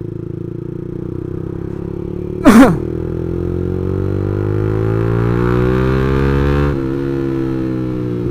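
Yamaha MX King 150's single-cylinder four-stroke engine running through an aftermarket racing exhaust while riding. Its pitch climbs steadily under acceleration from about three seconds in, drops suddenly near seven seconds at a shift or throttle lift, then begins to climb again. A brief, loud pitched blare, the loudest sound here, comes about two and a half seconds in.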